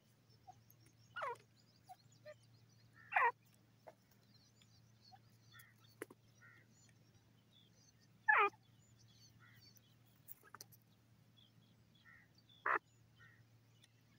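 Grey francolin (gora teetar) calling: four short, sharp notes, each falling quickly in pitch, spaced a few seconds apart, with a few faint chirps between them. A steady low hum runs underneath.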